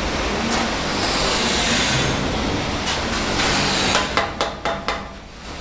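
Bricklayer's steel trowel working mortar with a steady scraping for about four seconds, then about five sharp knocks in quick succession near the end.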